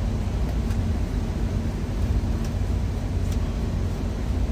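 Steady low idling rumble of a semi-truck's diesel engine, with a few faint crackles from food sautéing in the pans.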